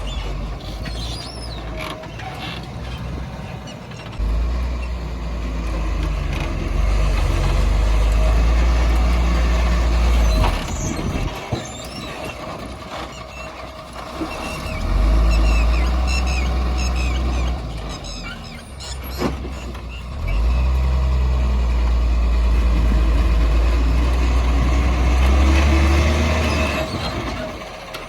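JCB 3DX backhoe loader's diesel engine working a mud-loading cycle: it revs up hard under hydraulic load in three spells of several seconds each and drops back toward idle between them. High squeaks come over the engine now and then.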